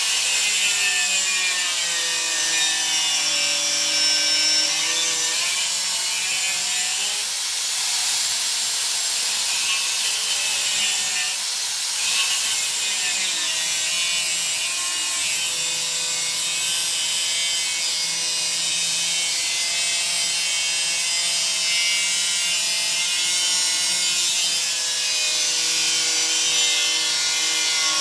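Angle grinder with a thin cutoff disc cutting through steel. It runs continuously, its whine dipping in pitch and recovering as the disc is pressed into the cut.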